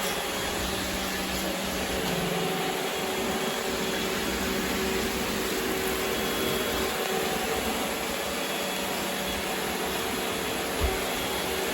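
Robot vacuum cleaner running, a steady whirring hum of its suction fan and brushes, with a single soft knock near the end.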